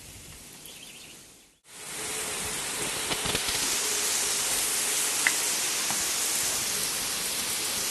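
Heavy summer rain pouring down as a steady, even hiss. After a brief break about a second and a half in, the downpour comes in louder and stays loud.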